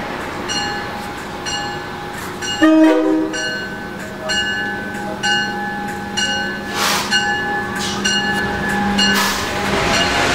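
Amtrak Acela Express pulling into a station: a bell dinging steadily, just under two dings a second, with one short, loud horn blast about three seconds in. Near the end the rushing noise of the train grows as it arrives.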